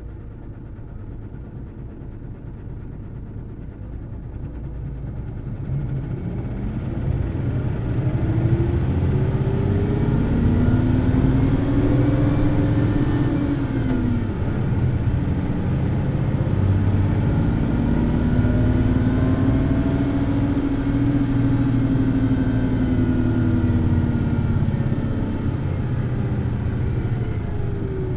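Hino Blue Ribbon City Hybrid bus under way from on board, its diesel engine pulling hard and revving high. The engine note and a faint high whine climb and fall twice, with a break about halfway, and the level eases off near the end.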